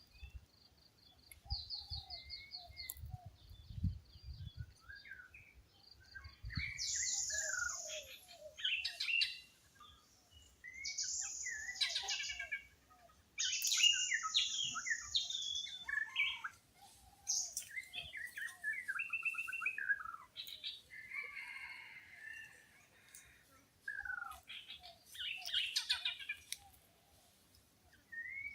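Several wild birds calling over one another in a forest chorus: a rapid trill, short gliding whistles, and a few loud, harsh high-pitched chirps that stand out above the rest.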